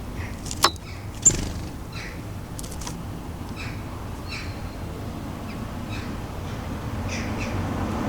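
Garden birds giving short calls over and over, about one every second or less. Two sharp clicks come about a second in. A steady low rumble runs underneath.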